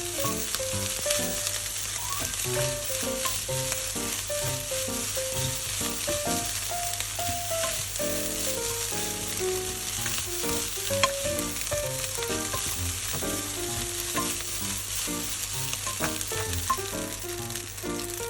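Fried rice sizzling in a hot frying pan as it is stir-fried, a steady high hiss, with background music playing over it.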